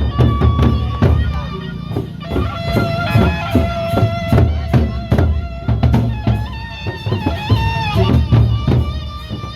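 Loud live band music: an electric guitar playing a bending melody over a steady drum beat and heavy bass.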